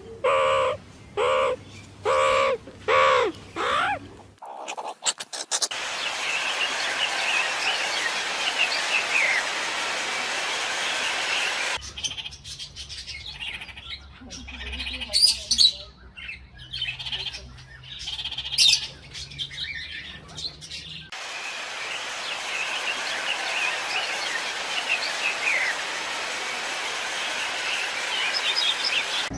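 Birds chirping over a steady background hiss, in several cut-together clips. It opens with about five short, evenly repeated pitched calls, and a middle stretch has a low hum under sharper, scattered calls.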